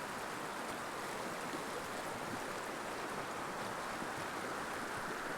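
Mountain river flowing, a steady rush of water.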